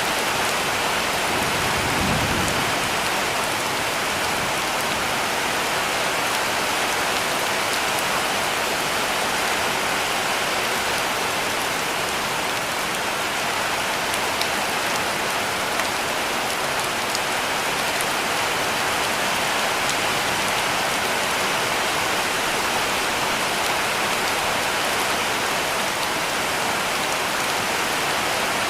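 Heavy rain falling steadily on a cabin roof: a dense, even hiss with scattered drop ticks.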